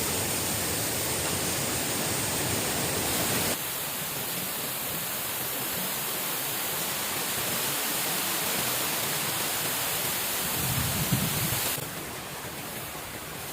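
Steady rushing noise of falling or running water, even and without a beat, stepping abruptly to a slightly different level twice. A brief low rumble shortly before the end.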